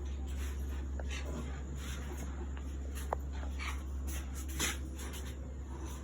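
Short, scattered animal squeaks and chirps from caged birds or pets, over a steady low hum.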